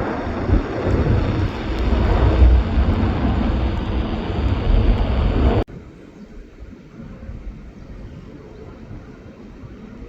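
Loud, deep rumble of jet airliner engines, with wind buffeting the microphone. It cuts off suddenly a little past halfway, leaving a much fainter steady rumble.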